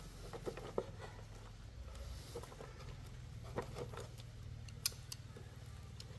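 Workshop handling sounds: scattered light clicks and taps of small objects, with sharp clicks about a second in, midway, and near five seconds, over a low steady hum.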